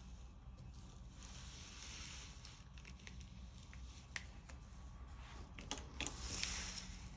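Faint scraping of a spatula and paint cup as acrylic paint is scooped and spread on a canvas, with a few sharp clicks of the tools being set down or tapped and a brief louder scrape near the end.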